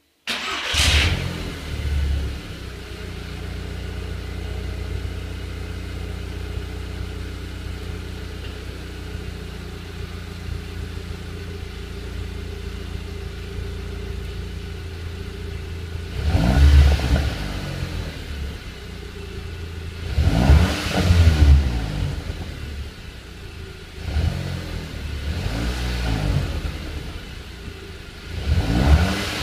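Volkswagen Golf GTI Edition 35's turbocharged four-cylinder engine through its standard exhaust: it starts up just after the beginning with a brief flare, settles into a steady idle, then is revved several times in the second half, each rev rising and falling in pitch.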